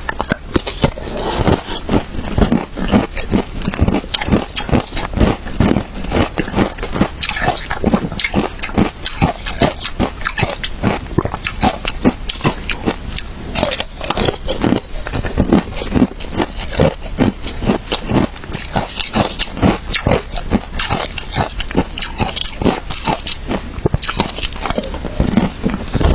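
A person biting and chewing crunchy shaved ice with matcha, giving a steady stream of sharp crunches, several a second.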